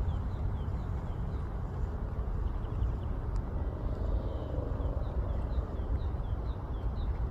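A small bird calling over and over in short falling chirps, about two a second, faint against a steady low rumble.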